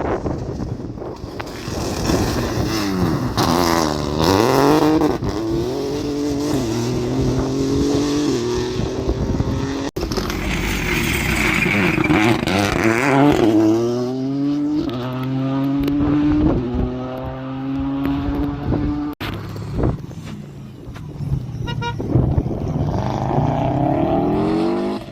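Rally car engines revving hard as the cars accelerate and brake, the pitch climbing and dropping with each gear change. The sound breaks off sharply twice as one pass gives way to the next.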